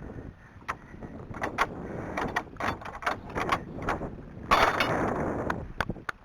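Wind buffeting the microphone, with a strong gust about four and a half seconds in, over a run of irregular sharp knocks and clicks.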